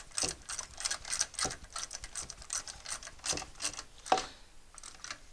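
Hand ratchet wrench clicking in short irregular runs as ignition coil bolts are snugged up; the clicking stops just before the end.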